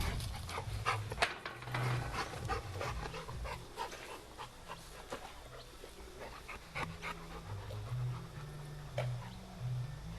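A dog panting, with scattered short clicks.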